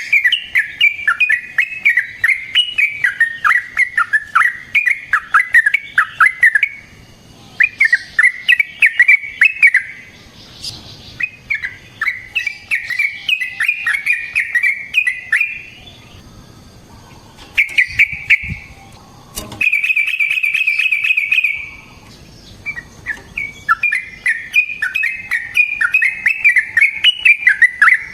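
Yellow-vented bulbul (trucukan) singing long, bubbly chattering phrases in several bursts with short breaks, and one fast, even trill a little past the middle.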